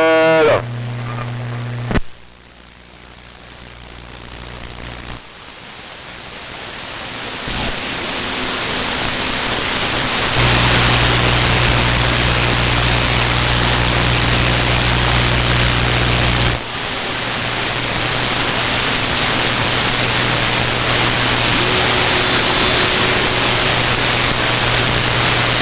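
CB radio receiver hissing with static between transmissions, under a low steady hum. A click about two seconds in, after which the hiss swells gradually, steps louder near the middle and drops back a few seconds later.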